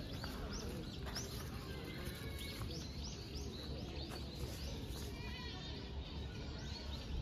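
Small birds chirping over and over in short high calls, with a warbled trill about five seconds in, over a steady low rumble.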